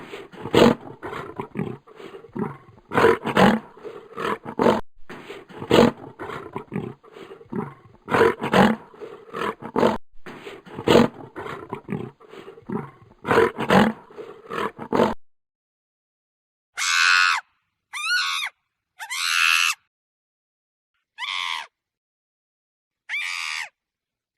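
A large animal roaring over and over, a loud noisy call about every two and a half seconds. About fifteen seconds in it cuts off, and five short, high, pitched animal calls follow with silence between them.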